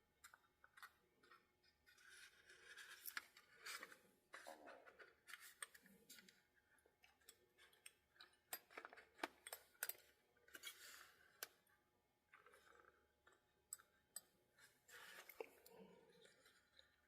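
Faint, irregular clicks and short scrapes of a small tool prying at the plastic and metal parts of a model locomotive, a tightly fitted piece being worked loose.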